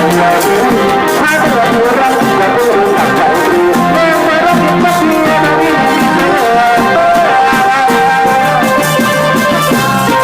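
Thai village brass band (trae wong) playing a tune: trumpets and trombones over a steady drum beat.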